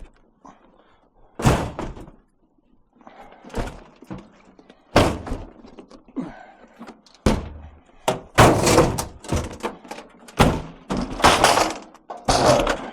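A washing machine tipped over and tumbled end over end, its metal cabinet landing in a string of heavy thuds and clatters that come faster after about eight seconds.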